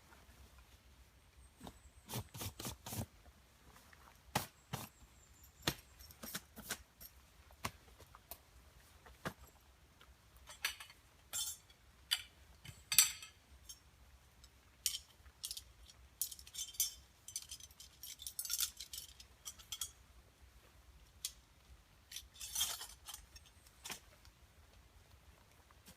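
Irregular light clinks, taps and jangles of small metal camp gear being handled while breaking camp, some single and some in quick clusters.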